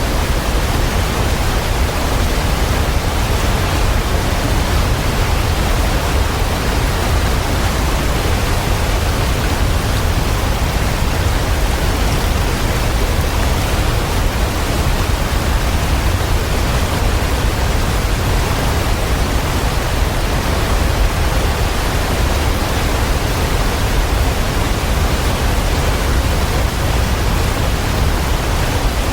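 Waterfall: a steady, unbroken rush of falling water, deepest at the low end, with no changes or distinct splashes.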